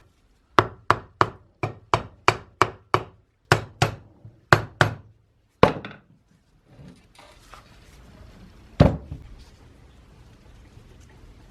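A run of about fourteen sharp knocks, roughly three a second, lasting about five seconds, then one more knock a few seconds later, the loudest of all.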